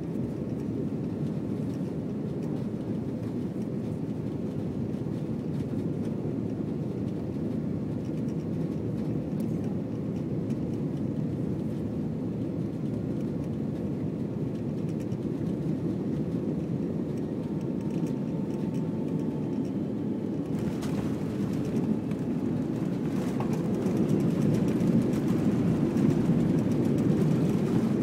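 Airbus A319 cabin noise on the ground after landing: a steady low rumble of the jet engines and the aircraft rolling. From about twenty seconds in, a hiss is added and the sound grows louder toward the end.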